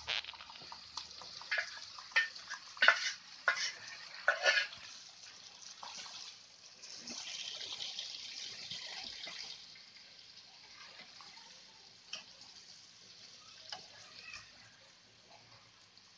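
Chickpea greens sizzling as they land in a hot oiled pan, with a spoon knocking and scraping against the pan and bowl several times in the first few seconds as they are stirred. The sizzle swells again in the middle and then fades to a faint hiss with only an occasional scrape.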